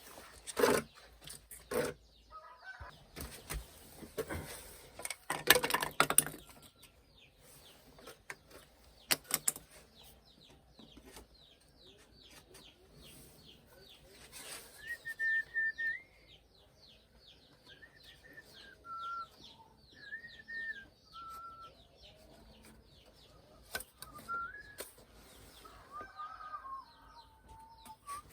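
Birds chirping with short rapid calls and a few held whistled notes, after several loud knocks and bumps in the first few seconds.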